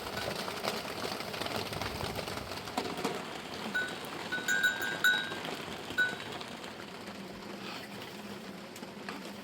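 Steady hiss of rain and rushing water, with a few brief ringing clinks about four to six seconds in.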